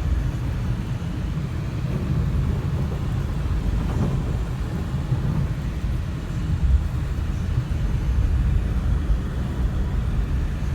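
Steady low rumble of a car driving on a snow-covered road, tyre and road noise heard from inside the cabin.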